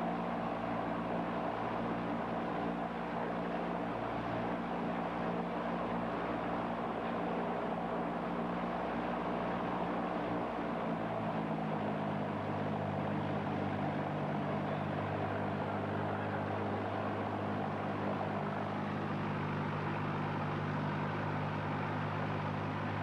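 Cessna 172's piston engine and propeller running steadily, a continuous drone whose engine note changes about halfway through.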